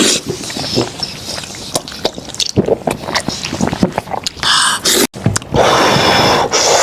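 Close-up wet eating sounds from goat head meat: chewing and lip-smacking in quick clicks, with a longer steady noise near the end.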